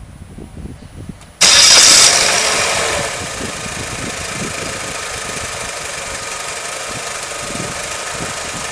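Car engine being started: the starter cranks it for about a second and a half, then the engine catches with a loud rev and settles into a steady idle from about three seconds in.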